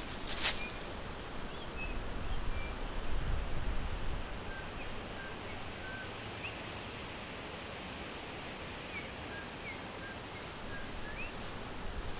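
Forest ambience: small birds give short, high chirps every second or so over a steady hiss of background noise. There is a brief crackle about half a second in and a low rumble a few seconds in.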